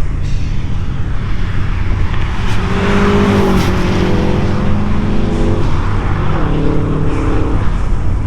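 Subaru Impreza's flat-four boxer engine pulling hard, over steady road and wind noise. Its pitch rises about two and a half seconds in, drops with an upshift a second later, and steps down again about six seconds in.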